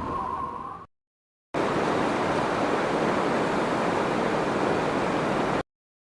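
Strong wind sound effect: a steady, even rushing of wind that starts and cuts off abruptly, lasting about four seconds. Before it, the tail of a howling wind effect fades out into a short silence.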